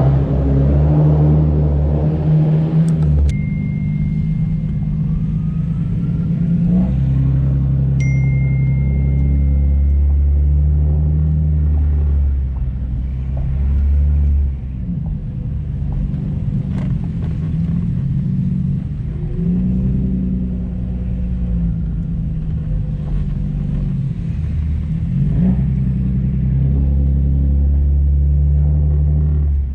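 A loud car engine and exhaust rumbling at low speed, the revs rising and falling over and over as the car is driven. This car is naturally loud. A faint high beep sounds twice early on.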